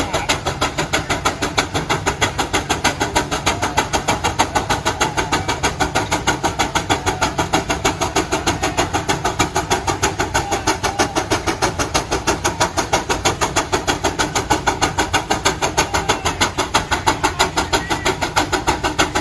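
Steam tractor's engine working hard under load, its exhaust beating in a fast, even rhythm of several chuffs a second.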